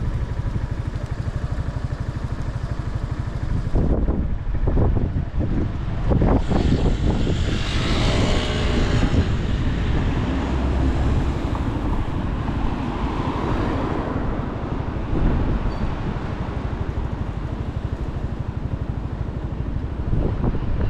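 Motorcycle engine idling with an even beat, then about four seconds in it revs and pulls away, with wind rushing over the microphone as it gathers speed, before settling into a steady run.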